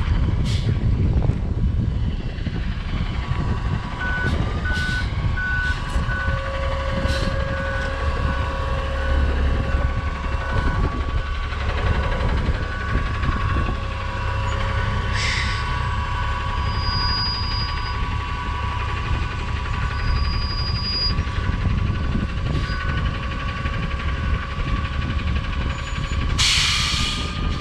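Garbage truck's diesel engine running while its backup alarm beeps steadily, about twice a second, as the truck is reversed. Near the end, a loud burst of air hiss, typical of the air brakes being set.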